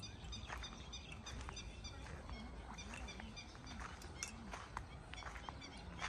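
Small birds chirping over and over in short high notes, with a few scattered clicks and a steady low rumble beneath.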